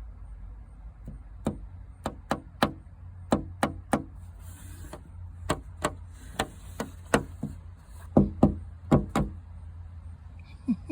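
An irregular series of about twenty sharp taps, a few a second with short pauses, over a steady low rumble.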